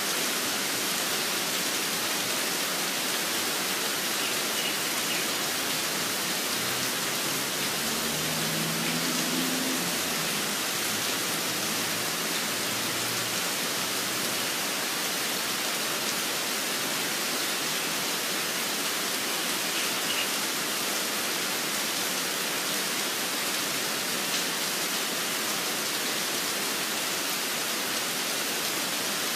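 Steady rain falling, an even hiss, with a couple of faint short bird chirps.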